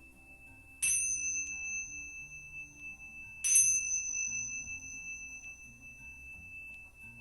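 A small, high-pitched bell struck twice, about two and a half seconds apart, each strike ringing on with a clear, lasting tone.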